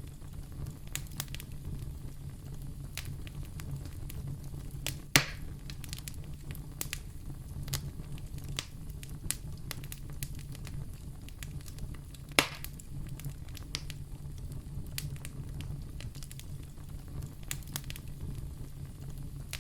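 Wood fire in a fireplace crackling steadily over a low rumble, with many small ticks and two loud pops, about five seconds in and about twelve seconds in.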